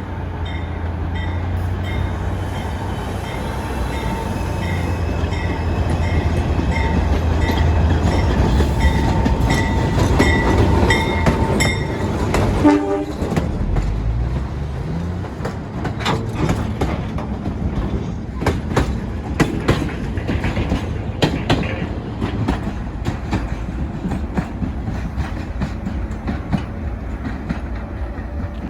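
NYC Subway work train running through the station: a low rumble that builds over about twelve seconds under a pulsing high tone. A sharp loud crack comes a little after twelve seconds in, then the wheels click rapidly and unevenly over the rail joints as the cars roll past.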